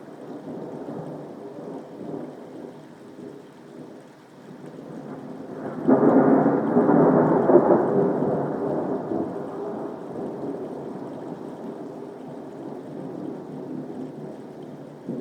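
Thunder during a soft rain: a low rumble builds, then a sudden loud peal about six seconds in rolls on and slowly fades over several seconds.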